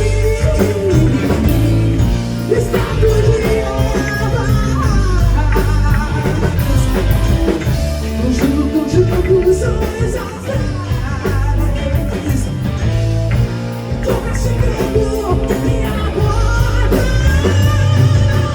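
Live prog rock band playing, with drums, bass, guitar and keyboards and a singing voice over them.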